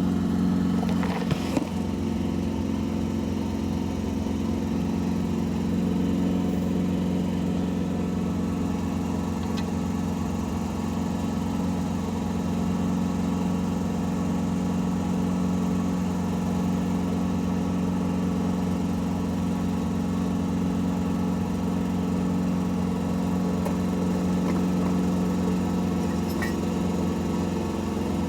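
Steady engine hum running evenly, with a few light metallic clicks about a second in.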